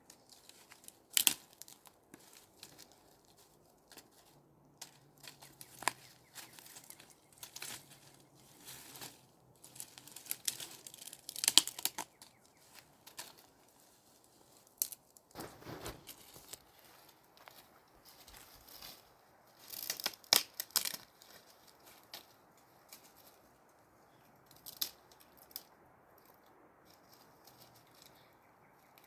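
Intermittent tearing and rustling sounds with scattered sharp clicks, the loudest about a second in, around 11 to 12 seconds in, and around 20 seconds in.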